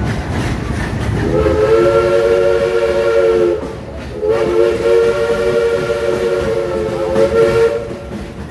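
Steam locomotive's whistle blowing two long blasts, several notes sounding together, over the rumble of the moving train.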